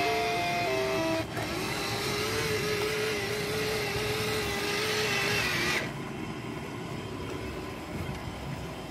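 Toy Christmas train: its electronic jingle ends about a second in, then a long steady tone over a hiss from its sound effects, which cuts off near six seconds in, leaving the quieter whir of its small motor running.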